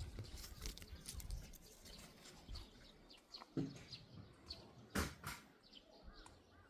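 Small birds chirping faintly here and there, with a few short knocks about three and a half and five seconds in.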